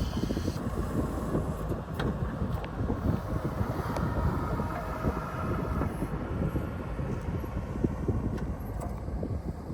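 Strong mountain wind buffeting the microphone: a dense, gusty low rumble with rapid irregular flutter.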